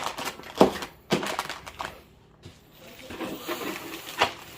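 Plastic adapter connectors and cables being handled in their kit box: three sharp clacks with light rummaging between them.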